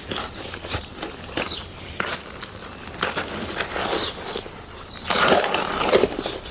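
Sand-and-cement mortar being stirred in a bucket: irregular gritty scraping and crunching strokes, with a longer, louder stretch near the end.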